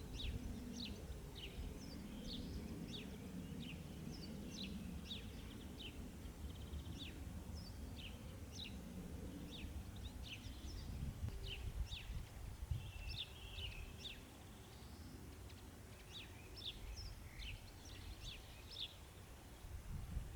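Small birds chirping in many short, sharp calls, several a second, over a steady low background rumble.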